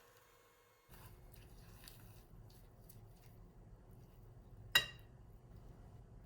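Light kitchen handling with a few faint clicks, then one sharp, ringing clink of kitchenware near the end.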